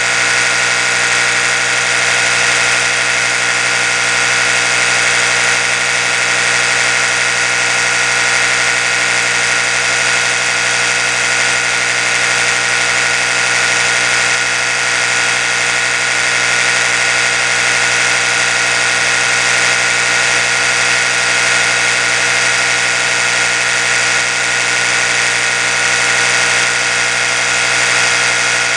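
Oral-B electric toothbrush running, its motor giving a steady, unbroken buzzing hum.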